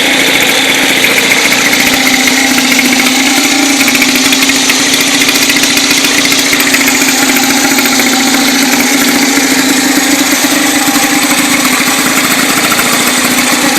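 1914 New Hudson 211cc single-cylinder two-stroke engine running steadily out of gear, with fast, even firing and a slight waver in pitch.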